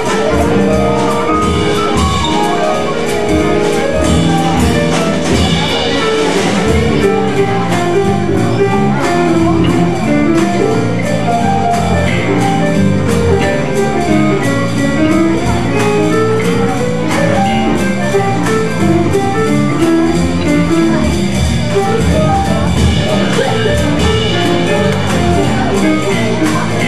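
Live jazz trio playing an instrumental passage: a moving melody line over a steady beat.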